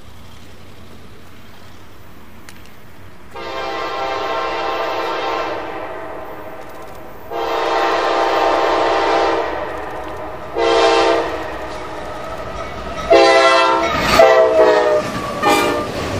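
Diesel locomotive air horn sounding the grade-crossing pattern: long, long, short, long. The last long blast is the loudest, and its chord drops in pitch as the locomotive passes close by. The rumble of the approaching train rises underneath.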